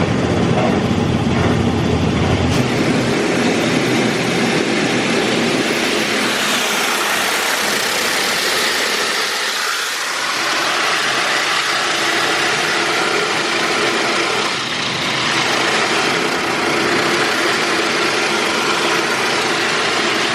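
High-pressure water jets of a D&S IQ Express touch-free car wash blasting the car, heard from inside the cabin: a loud, steady spray noise that eases briefly twice as the jets move over the car.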